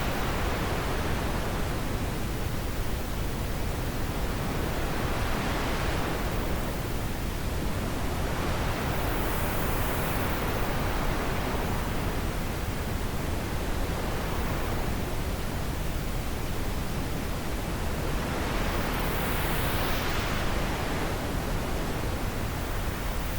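Wind blowing: a steady rushing noise with slow whooshing swells that rise and fall in pitch every several seconds.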